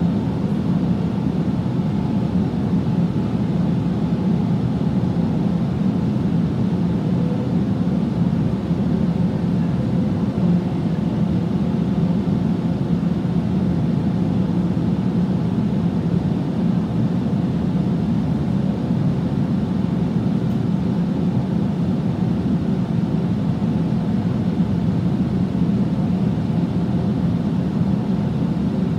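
Steady low rumble inside the carriage of a Sydney Trains Millennium (M set) double-deck electric train running along the line, without clear individual clacks or squeals.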